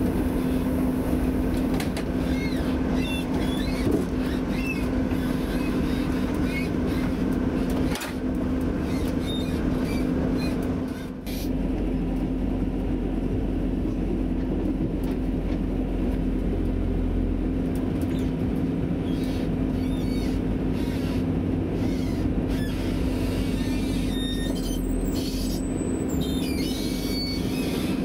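Class 175 diesel multiple unit heard from inside the carriage while running along the line: a steady engine drone over rumbling wheel and rail noise. A few thin high squeaks come near the end.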